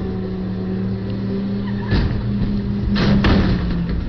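An engine running steadily with a low hum, with a heavy thud about two seconds in and louder knocks about three seconds in.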